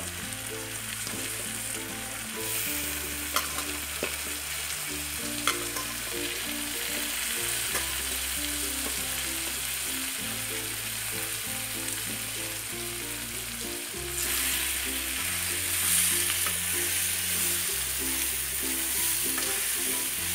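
Chunks of green mango sizzling and spitting in hot mustard oil in a frying pan, the sizzle growing louder about fourteen seconds in, with two sharp clicks early on.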